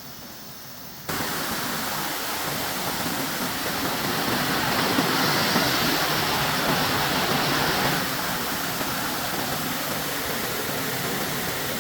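Waterfall: a steady rush of falling water that starts abruptly about a second in and grows louder for a few seconds midway.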